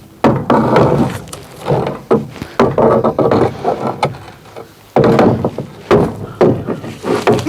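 Split oak firewood being handled, with pieces knocking and clattering against each other in irregular clunks.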